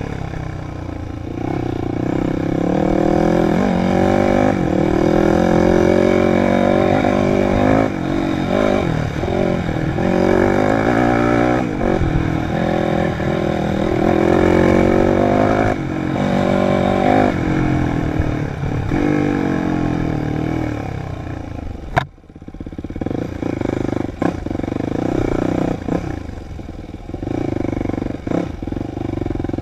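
Dirt bike engine running hard on a trail, its revs rising and falling again and again through the gears. A single sharp knock about 22 seconds in; the engine drops quieter for a moment, then picks up again.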